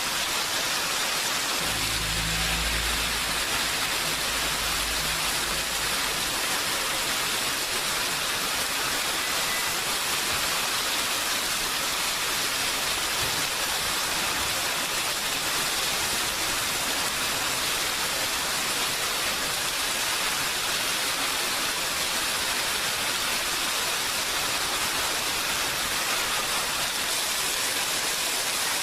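Steady heavy rain falling, an even hiss of drops. A low rumble sounds briefly a couple of seconds in.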